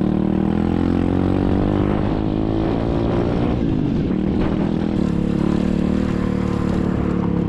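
SSR 125cc dirt bike's single-cylinder four-stroke engine running while riding, its pitch easing down a couple of seconds in and then holding steady.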